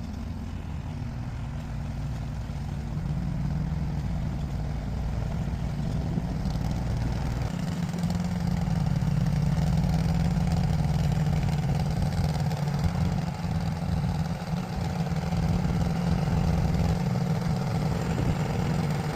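A vehicle engine running steadily, a low even hum that shifts slightly in pitch a few seconds in and again near the middle.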